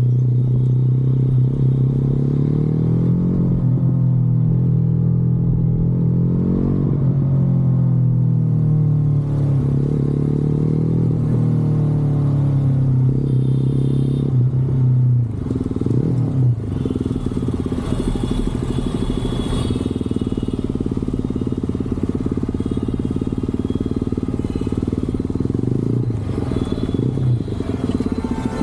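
Motorcycle engine running under way, its note rising and falling with the throttle for the first half, then settling into a steadier, rougher low drone.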